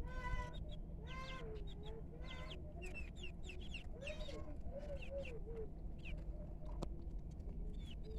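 Domestic chickens clucking and calling, a string of short calls, some with a rising-and-falling pitch and others as sharp higher chirps, over a steady low hum.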